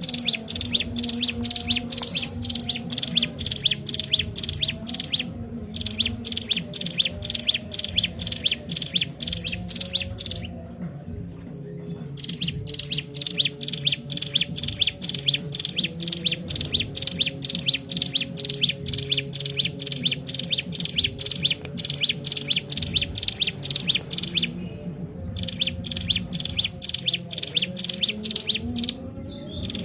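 Ciblek gunung (a mountain prinia) singing loud, rapid chirps repeated several times a second in long runs, broken by a few short pauses. A steady low hum runs underneath.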